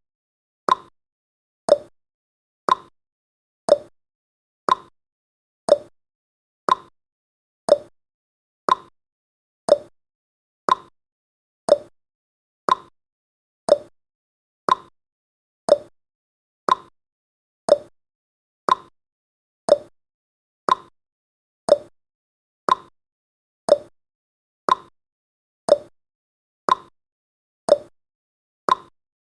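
Clock tick-tock sound effect marking each second of a countdown: one short, sharp tick a second, alternating between a higher and a lower tone.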